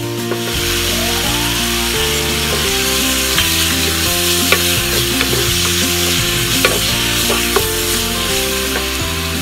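Onions and tomatoes frying and sizzling in sauce in a non-stick pan, stirred with a wooden spatula that knocks sharply against the pan about half a dozen times. Background music with held notes plays underneath.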